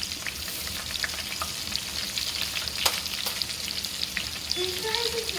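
Breaded chicken strips frying in hot oil: a steady sizzle with scattered crackles and pops, one sharper pop about three seconds in.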